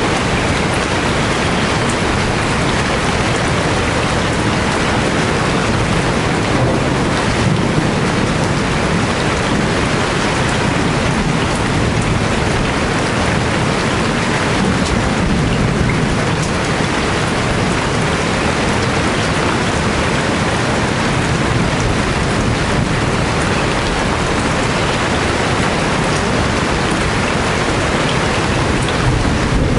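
Steady rain falling hard, a dense even hiss with a low rumble underneath.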